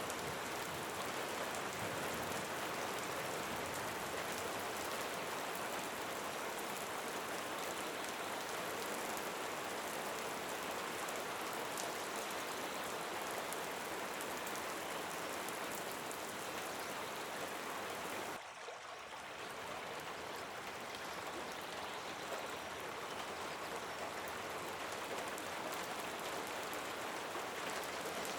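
Steady rain falling, an even hiss of many drops, with a brief dip in level about two-thirds of the way through.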